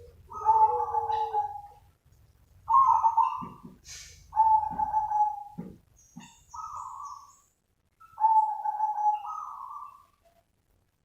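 Zebra dove (perkutut) cooing: about five rolling, trilled call phrases with short pauses between them, then quiet near the end.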